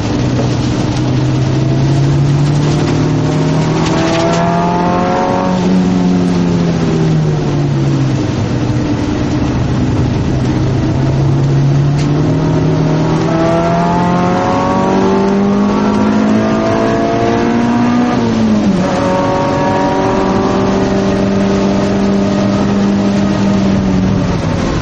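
Race car engine at speed, its pitch climbing as it accelerates and falling as it slows, with a sharp drop about 18 seconds in.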